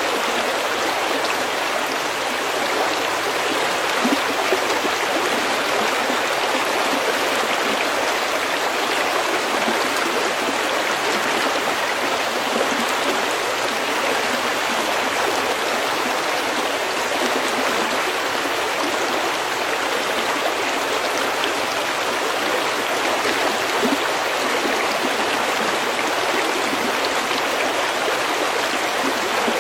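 Steady rush and babble of a stream flowing over pebbles, an even, unbroken water noise.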